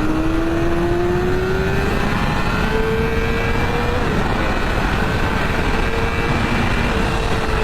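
Yamaha R6's 600cc inline-four engine running under acceleration. Its pitch climbs slowly, dips briefly about four seconds in, then holds fairly steady, over heavy wind rush.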